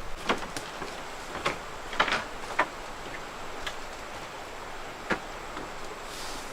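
Irregular sharp knocks and clicks, about seven of them, the loudest cluster about two seconds in, over a steady background hiss.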